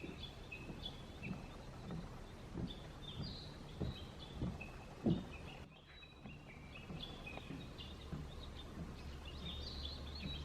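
Several small birds singing, short high chirps and trilled phrases overlapping. Low dull thumps come through in the first half, and a steady low hum near the end.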